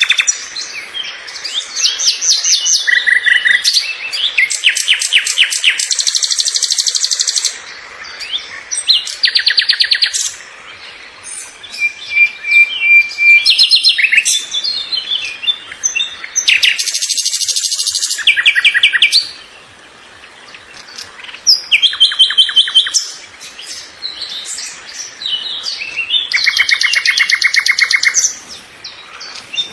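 A songbird singing close by: loud phrases of fast trills and chirps, each lasting a second or two with short pauses between, and one held whistled note about halfway through.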